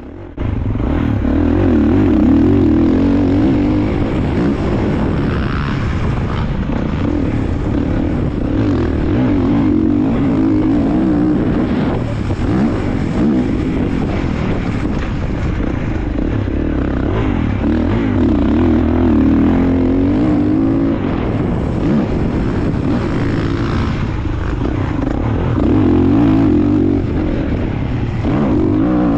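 Motocross dirt bike engine running hard on the track, its pitch rising and falling over and over as the throttle opens and closes.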